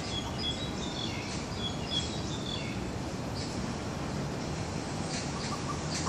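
A songbird giving a string of short, high chirps through the first half, over a steady low background rumble.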